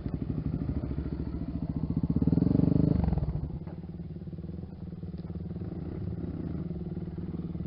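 Single-cylinder four-stroke engine of a Honda XR 250 Tornado trail motorcycle running, with revs rising briefly about two seconds in, then dropping back to a lower, steady run.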